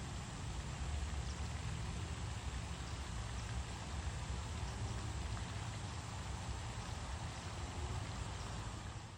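Steady outdoor background noise, a fine even hiss over a heavy, unsteady low rumble, with no distinct calls or events standing out.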